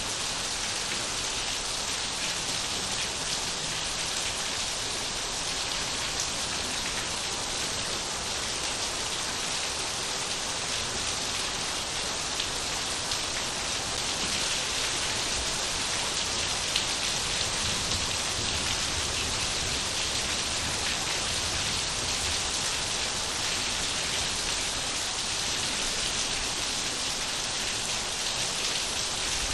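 Steady rain falling, a dense even patter of drops with no other sound standing out.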